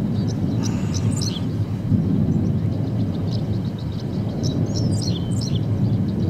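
Birds chirping, with short high calls scattered throughout and longer sliding calls about a second in and again about five seconds in, over a steady low rumble.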